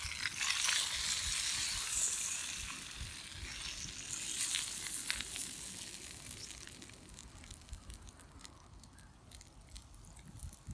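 Food sizzling in a pan, a dense hiss with small crackles and clicks that fades away over the second half.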